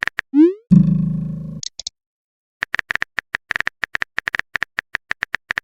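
Chat sound effects: a rising 'bloop' as a message pops up, a loud buzzing tone that fades away over about a second, then a long run of quick phone-keyboard typing clicks.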